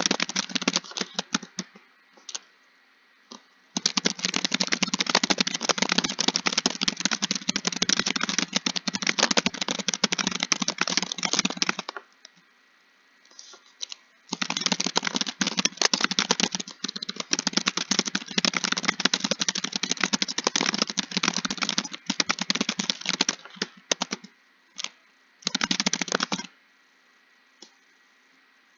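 Fast typing on a keyboard: long runs of rapid key clicks, with short pauses about two seconds in, about halfway through, and near the end.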